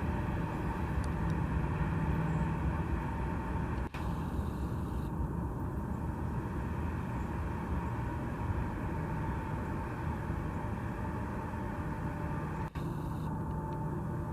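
Diesel-hauled freight train running steadily: a low engine drone with a steady higher tone over it, cut short twice by brief gaps.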